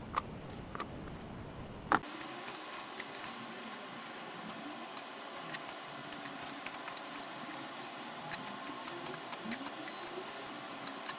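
Kitchen knife slicing gizzard shad on a cutting board: light, irregular clicks and taps as the blade meets the board.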